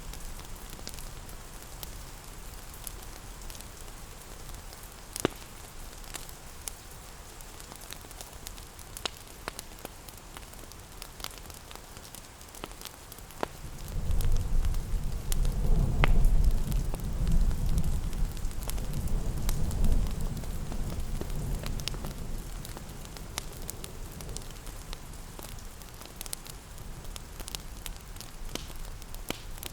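Steady rain hiss with a wood fire crackling in irregular sharp pops. About halfway through, a low rumble swells up and fades away over several seconds.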